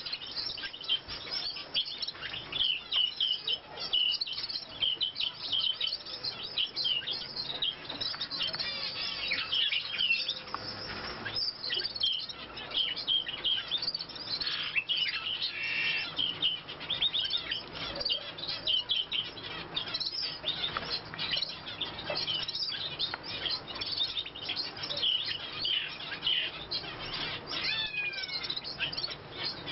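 Small cage birds chirping in short, high calls, many overlapping and nearly nonstop, with two downward-sliding calls near the end.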